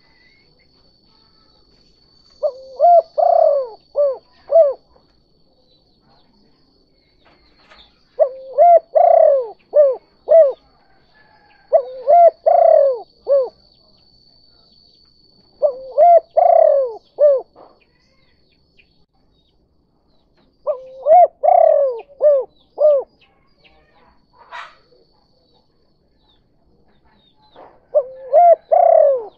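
Spotted dove cooing its 'kuk 2' call: six phrases of a few short, low coos each, repeating about every four to five seconds.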